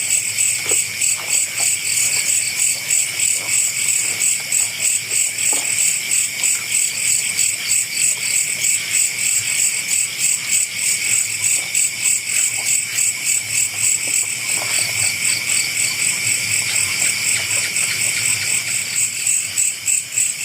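Chorus of night crickets and other insects: a high-pitched chirping that pulses evenly several times a second over a lower steady trill. A few faint knocks come and go beneath it.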